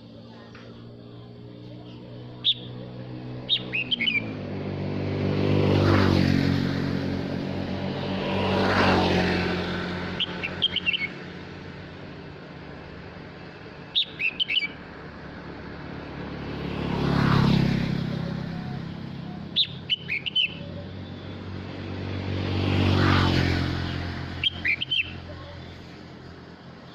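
A male red-whiskered bulbul gives short bright song phrases about six times, repeatedly calling to the flock. Between them, passing vehicles swell up and fade away four times, louder than the bird.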